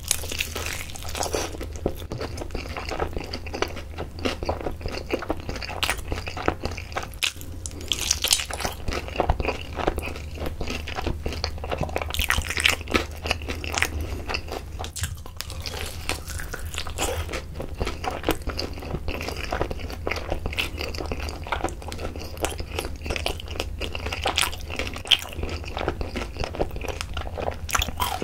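Close-miked biting and chewing of a yangnyeom-sauced Korean fried chicken drumstick: the coating crunching and dense short crackles as the meat is bitten off and chewed, over a steady low hum.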